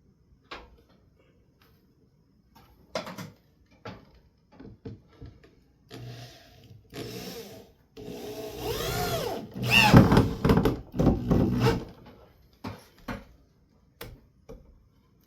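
Corded electric drill driving a screw, its motor speeding up and slowing in several pulses for about four seconds in the second half. Before it, a few knocks and clicks of handling the drill and wood.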